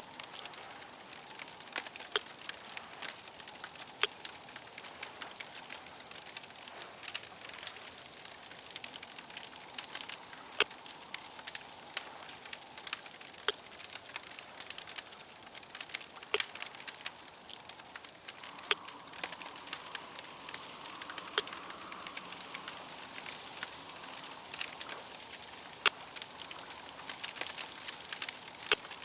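Crackling fire: irregular sharp pops and crackles over a soft, steady hiss.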